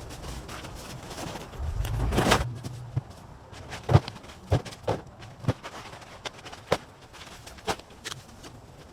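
Irregular knocks, clicks and rustles of junk being handled and moved in a debris pile, with a brief low rumble about two seconds in.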